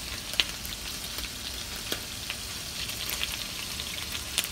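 Bratwurst frying in a skillet on the stovetop: a steady sizzle with scattered sharp pops of spitting fat.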